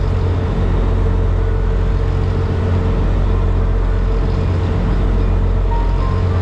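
High-speed passenger boat's engines running with a steady low drone.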